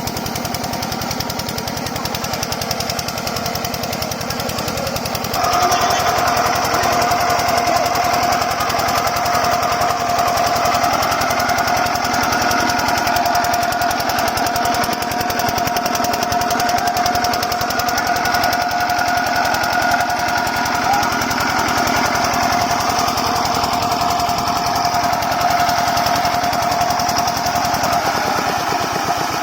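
An 8 HP diesel water-pump engine running with a rapid, even knock. About five seconds in it gets louder and a steady whine joins, holding until just before the end.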